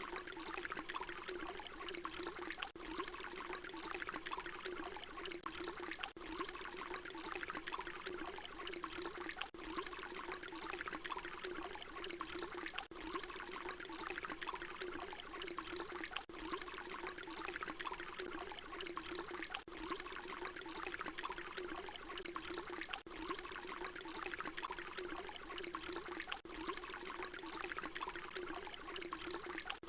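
Water pouring in a steady, continuous stream. There is a brief dip about every three and a half seconds where the short recording loops back on itself.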